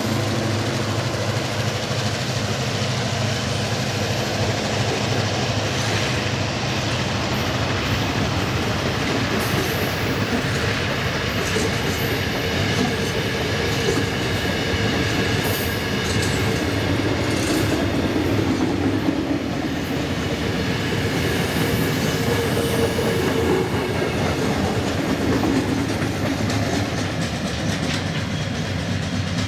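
A ballast train passing close by: the last of two DAZ-class diesel locomotives goes by, then a long rake of empty steel hopper wagons rolls past, their wheels clacking steadily over the rail joints.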